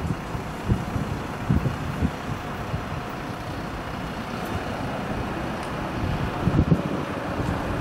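Distant train approaching, a steady rumble that slowly grows louder near the end, with gusts of wind thumping on the microphone.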